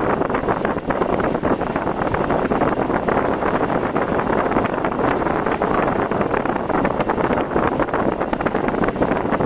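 Steady rushing noise of a car driving through typhoon wind and rain, with a dense patter of small ticks throughout.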